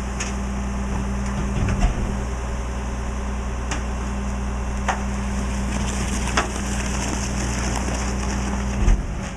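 Mack LE garbage truck's diesel engine running steadily, with scattered sharp cracks and snaps of trash being crushed, and a low thump near the end as the engine note drops.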